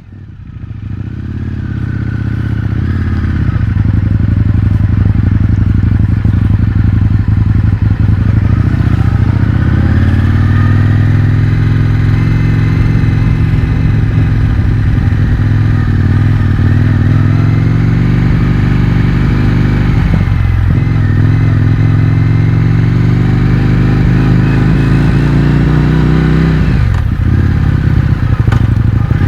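Indian FTR 1200's V-twin engine through an Akrapovič exhaust with the baffles removed, heard on board while riding. The sound fades in over the first few seconds; the revs climb slowly, dip around two-thirds of the way through, climb again and drop sharply near the end.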